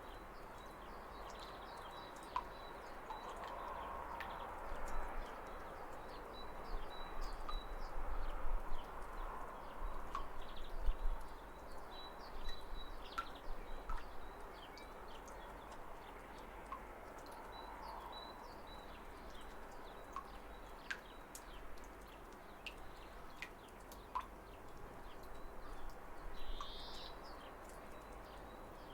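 Waterfall rushing steadily, swelling a little now and then, with birds chirping in short, scattered calls over it and two fuller calls near the end.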